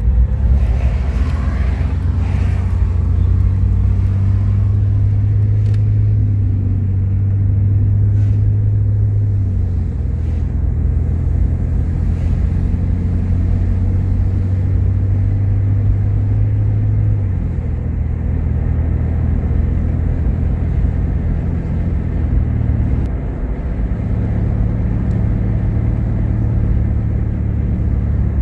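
Car engine and road noise heard from inside a moving vehicle, a steady low hum whose pitch shifts a few times as the speed changes.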